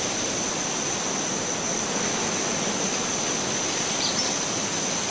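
Woodland nature ambience: a steady rushing noise, with a continuous high-pitched insect trill over it and one brief faint chirp about four seconds in.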